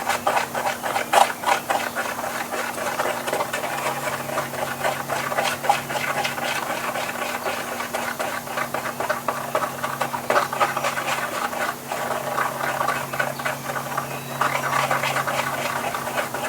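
A nail stirring and scraping two-part epoxy on a mixing surface: quick, continuous scratchy strokes.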